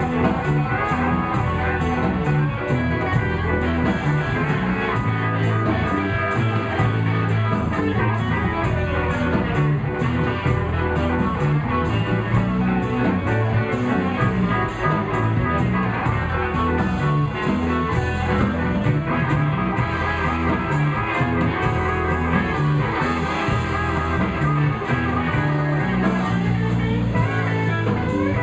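Live blues band playing an instrumental passage, with electric guitar over bass and drums keeping a steady beat.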